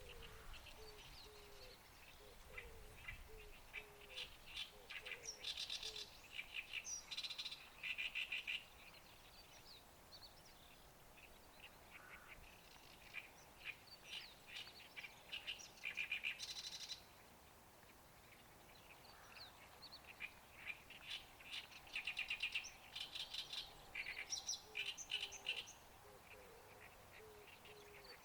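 Songbirds singing in repeated bursts of rapid, chattering notes, with faint lower calls near the start and again near the end.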